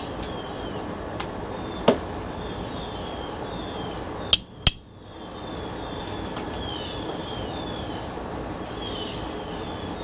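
Three sharp hammer blows on a covered ceiling-fan part being broken apart for scrap: one about two seconds in, then two quick blows close together near the middle.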